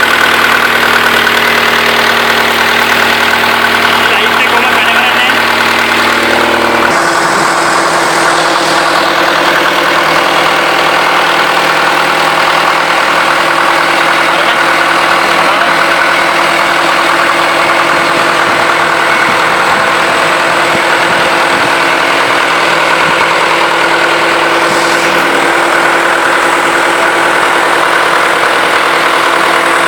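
Perkins L4 four-cylinder four-stroke diesel engine running steadily. About seven seconds in its sound changes abruptly, losing its deepest part, then runs on steadily.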